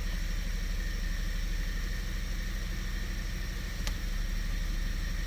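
The 2017 Kia Sorento's 2.0 turbo four-cylinder engine idles steadily during a scan-tool injector kill test on injector 4. The engine has a bad vibration from a misfire. There is one sharp click about four seconds in.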